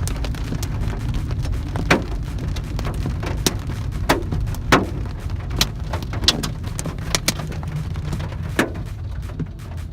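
Hailstorm with rain: scattered sharp ticks of hailstones striking hard surfaces over an even patter of rain and a steady low rumble.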